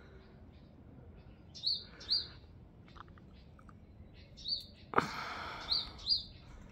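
A small songbird giving short high chirps, several in pairs, every second or two. About five seconds in, a sudden burst of noise, louder than the chirps, fades over about a second.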